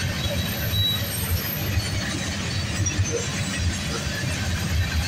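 Freight cars of a long manifest train, mostly covered hoppers, rolling past at speed: a steady low rumble of wheels on rail.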